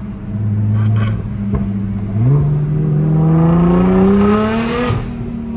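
Nissan GT-R R35's twin-turbo V6 under hard throttle. About two seconds in, the engine note jumps and climbs steadily in pitch for nearly three seconds with a rising rushing hiss, then drops abruptly near the end.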